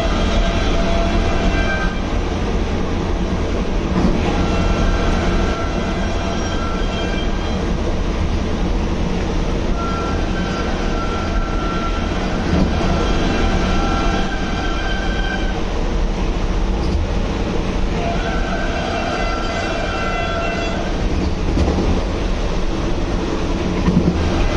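Train running at speed: a steady rumble of wheels on rail, with a high whine that comes and goes every few seconds.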